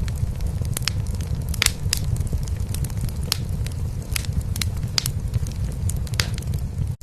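A cat purring steadily, a dense low rumble, under a wood fire crackling in a fireplace with frequent sharp pops. The sound cuts out for an instant at the very end.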